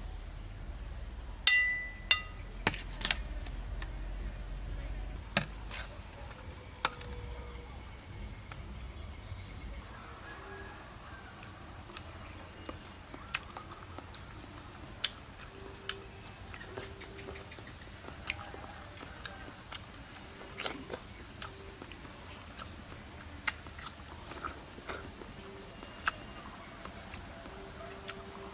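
A steady, high-pitched insect chorus drones throughout, with scattered sharp clicks and knocks from kitchen work, such as a knife and utensils on fruit and a board. A low rumble fades out about ten seconds in.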